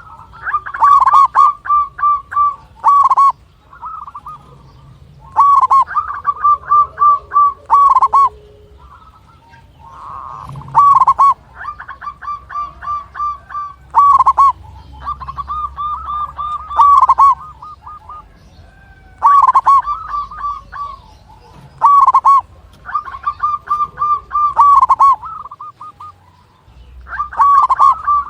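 Zebra dove (perkutut) cooing: loud phrases of quick staccato coos, each a couple of seconds long, repeating about every four to five seconds, some seven phrases in all.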